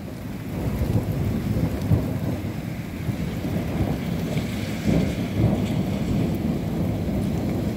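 Thunderstorm: rain falling with a steady low rumble.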